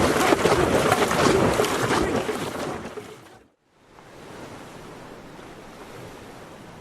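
Water splashing and rushing around a dragon boat, with wind buffeting the microphone, fading out about three and a half seconds in to a faint steady hiss.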